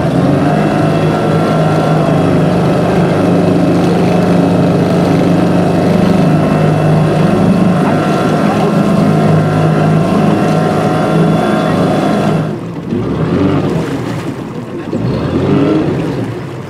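A motor engine running at a steady speed, its level and pitch unchanged, until it cuts out about twelve seconds in.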